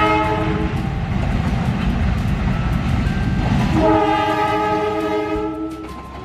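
KAI diesel-electric locomotive rumbling past at close range, hauling freight wagons. It sounds its multi-tone horn twice: a short blast at the start, then a longer blast a little before the end, after which the rumble fades.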